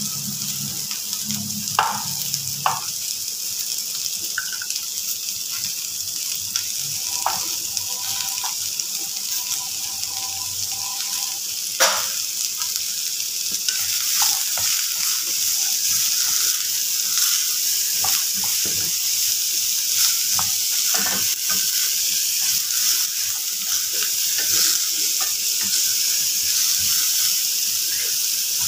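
Diced beetroot frying in hot oil in a metal kadai, a steady sizzle, with a few sharp knocks in the first half. From about halfway the sizzle grows louder, with a spatula scraping and stirring the pieces.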